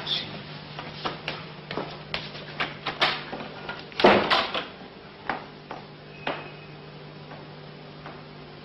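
Irregular sharp clicks and knocks indoors, with a louder knock about four seconds in and a few weaker ones after it, over a steady low hum. The clicks stop after about six seconds.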